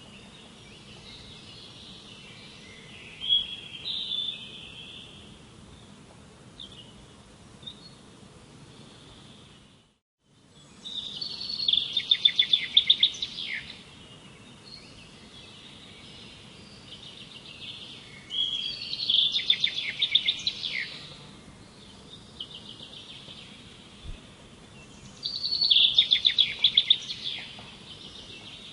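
Songbird singing: after a few softer notes, three loud rapid trilled phrases about six to seven seconds apart, over a steady faint background hiss. The sound drops out briefly about ten seconds in, like an edit.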